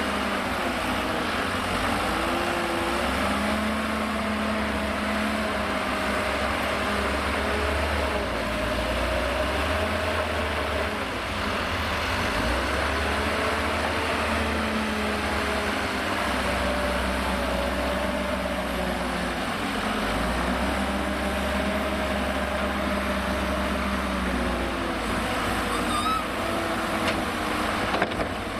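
Liebherr L534 wheel loader's diesel engine working, its pitch rising and falling again and again as it cycles through the loading, over a steady low rumble. A short sharp knock near the end.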